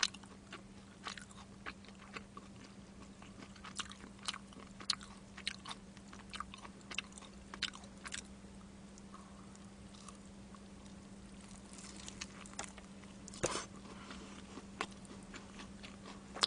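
Close-miked chewing of crispy soy-sauce boneless fried chicken: irregular soft crunches and mouth sounds, with a lull in the middle and a louder bite near the end.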